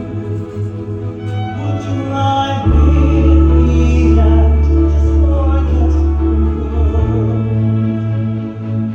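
String ensemble music with sustained bowed notes over a deep bass; the bass moves to a lower note about three seconds in and back up about seven seconds in.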